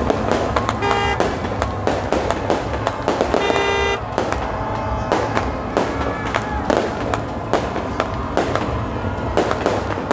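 Fireworks and firecrackers going off in a rapid, continuous string of sharp bangs and crackles. Two short horn toots sound over them, about one second and three and a half seconds in.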